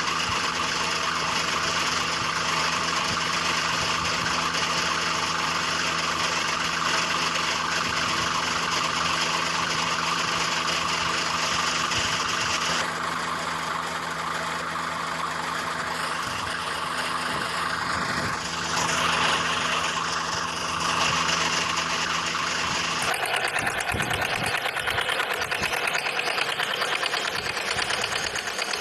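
An engine running steadily with a knocking, diesel-like drone. Its sound changes abruptly about halfway through and again a few seconds later, turning rougher and more pulsing toward the end.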